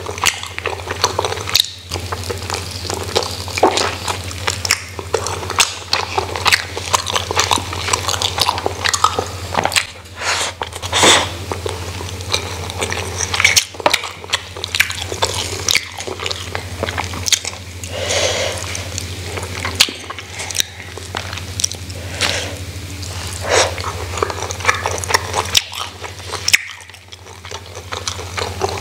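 Close-miked eating: a person chewing and biting a rice meal with grilled chicken and fritters, wet mouth clicks and chewing noises coming irregularly, over a steady low hum.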